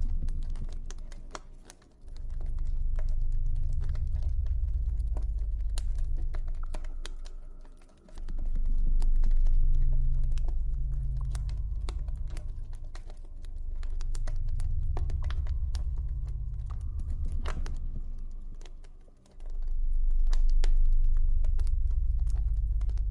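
Campfire crackling with frequent sharp pops and snaps, over a deep low rumble that swells and fades, dying away briefly three times.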